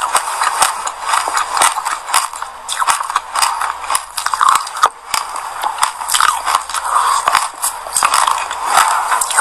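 Mouth chewing sesame seeds coated on passion fruit pulp: dense, irregular crunching and crackling of the seeds between the teeth.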